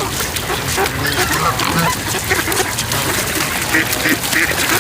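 A flock of waterfowl calling, many short calls overlapping one after another.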